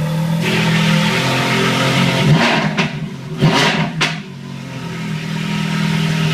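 Ferrari F430's V8 running through Fabspeed headers and a Capristo-valved exhaust, idling steadily, then blipped in a few quick revs about two to four seconds in before settling back to idle.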